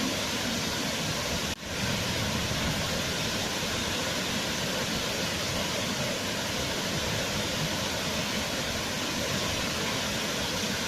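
Waterfall: a steady, even rush of falling water, with a brief sudden dip in level about one and a half seconds in.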